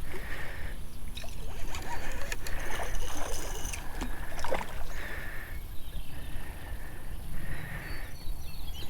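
A hooked fish being reeled in from the bank: irregular clicks and scrapes of reel and rod handling and a light splashing of water, over a steady low rumble of wind on the microphone.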